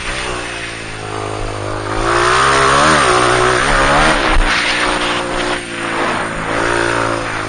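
Motocross bike engine revving up and down as it is ridden, the pitch climbing and dropping several times, highest around the middle.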